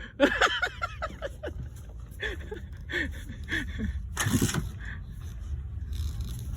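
People's voices calling out in short, rising and falling phrases over a steady low rumble, with a brief noisy burst about four seconds in.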